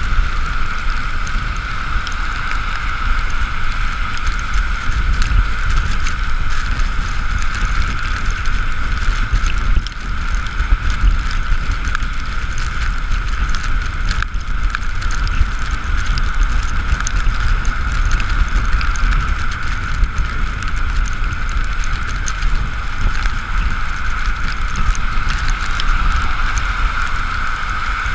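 Wind and road noise on an Ekoway ML5000 electric motorcycle riding in the rain: a steady low rumble of wind on the camera microphone, a steady high hum, and faint scattered ticks.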